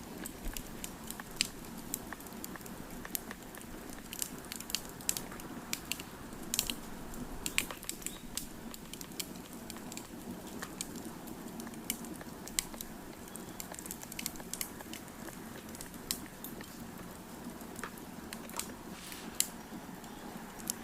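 Wood fire crackling: irregular sharp pops and snaps over a low, steady rush.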